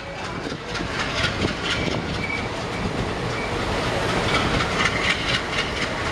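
Indian Railways passenger coaches rolling along the track alongside, with a steady rumble and hiss and irregular clacks of wheels passing over rail joints.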